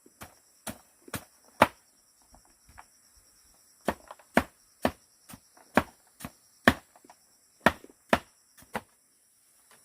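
A series of sharp knocks, about two a second, pausing for about two seconds after the first few.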